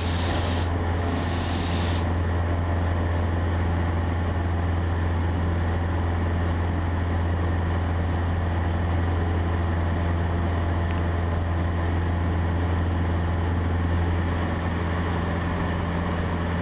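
Cessna 150's four-cylinder Continental O-200 engine and propeller running steadily at full climb power just after lift-off, heard from inside the cockpit as a constant low drone. A brief higher hiss rides over it in the first couple of seconds.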